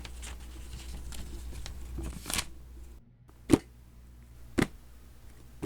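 Rustling and crinkling, like paper packages being handled and passed over, for about two and a half seconds over a low hum. Then three sharp knocks about a second apart.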